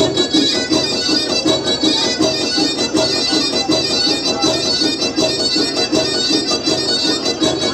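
Loud traditional Black Sea folk dance music, a sustained droning lead melody over a quick steady beat.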